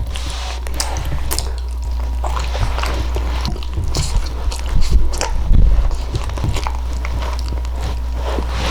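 Close-miked chewing and biting of baked sweet potato with its skin: scattered wet clicks and crackles, busiest and loudest about five seconds in, over a steady low hum.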